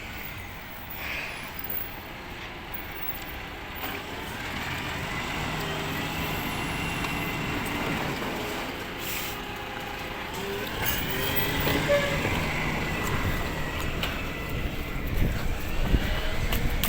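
Refuse and recycling collection truck running, getting louder towards the end, with a high whine that rises and falls in the middle.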